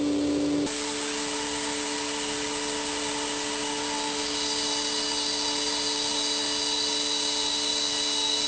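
A motor-driven tool running steadily with a whine and hiss. Its pitch steps down slightly under a second in, and a higher whistle joins about halfway through.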